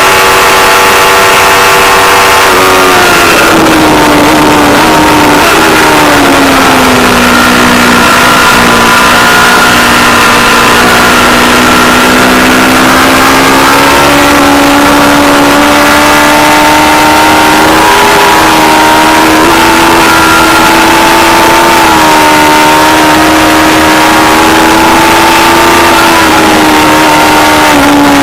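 Aprilia Tuono V4 Factory's V4 engine running under the rider, its pitch falling smoothly for a few seconds as the bike slows, then holding a fairly steady speed with small rises and dips.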